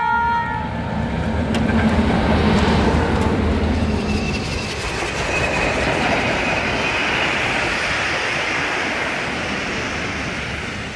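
Full-size passenger train passing close by: a steady rumble of wheels on rail. A thin, high wheel squeal joins about four seconds in and fades before the end.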